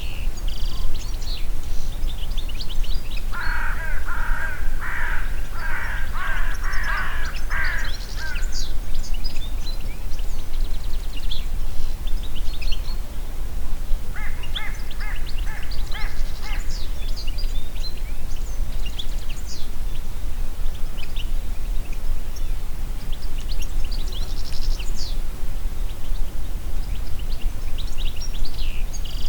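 Steady low wind rumble in a forest, with small birds chirping high and briefly throughout. A larger bird gives two runs of harsh, evenly repeated calls: about seven a few seconds in, and about five more, faster, around the middle.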